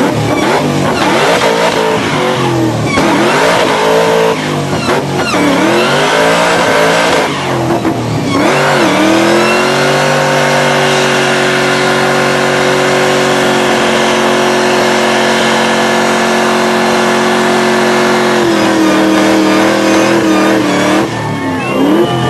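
Muscle car engine revving up and down hard for several seconds, then held at steady high revs for about nine seconds, as in a burnout. The revs drop a step and the engine revs freely again near the end.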